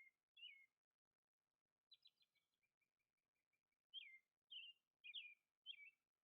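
Faint bird calls: short chirps that slide down in pitch, one near the start and four more from about four seconds in, with a run of quick, even notes between them.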